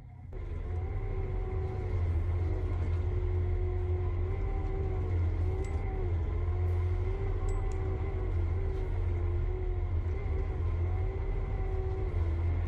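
A heavy machine's engine running steadily with a deep rumble. Over it is a droning whine that lifts briefly in pitch about once a second.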